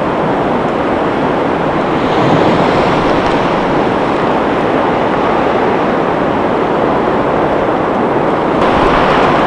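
Blizzard wind gusting: a loud, steady rush that swells about two seconds in and again near the end.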